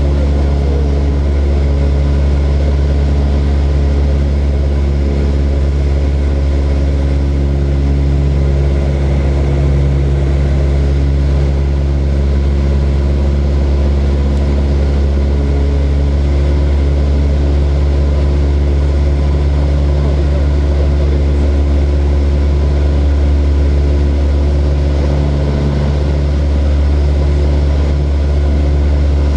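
Small propeller aeroplane's engine running steadily in flight: a loud, even drone with a deep hum and several steady tones over it.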